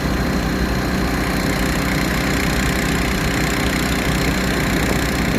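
Engine of a 3-inch transfer pump running steadily while it pumps a load of liquid fertilizer from the tanker.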